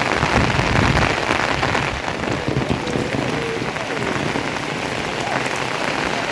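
Rain falling steadily, a dense hiss of many drops hitting surfaces, heavier and deeper for the first two seconds.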